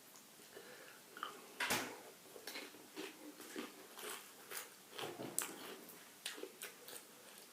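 Pringles crisps being bitten and chewed, a sharp crunch of a bite about a second and a half in followed by irregular smaller crunches.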